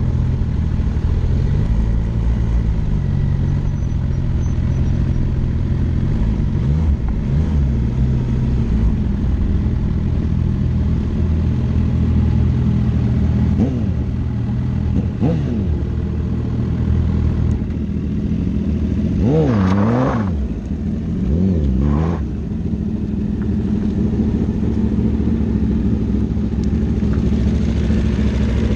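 Motorcycle engine running under way, a steady drone whose pitch dips and climbs again a few times past the middle, as the throttle is eased off and opened back up.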